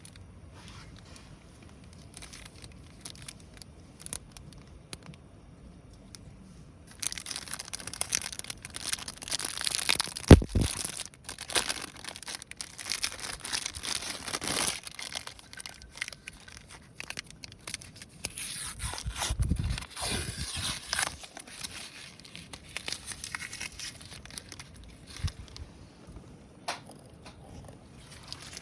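Campfire crackling and popping, with crinkling and snapping of kindling being handled; sparse clicks at first, then much louder and denser about seven seconds in, with a heavy knock around ten seconds.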